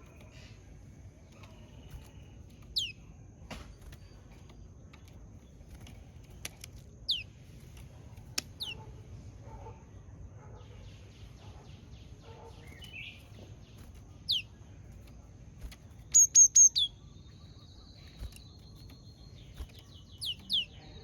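Japanese tit calling: sharp, high notes that sweep downward, given singly every few seconds, then a quick run of four loud notes a little past halfway, with softer rapid ticking notes between.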